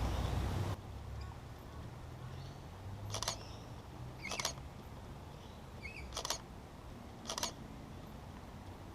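Camera shutter firing four times, each a quick double click, a second or two apart as photos are taken. A loud rushing noise at the start cuts off suddenly.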